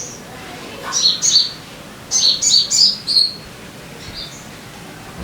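Sogon bird singing: short, high chirps, a few about a second in, then a quick run of about five sharp notes that step between two pitches.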